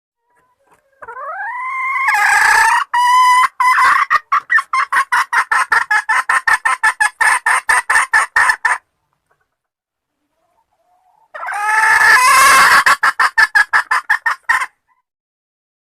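Junglefowl hen calling the cock. A rising, drawn-out note breaks into a fast run of clucks, about five a second, for several seconds. A shorter call of the same kind follows a couple of seconds later.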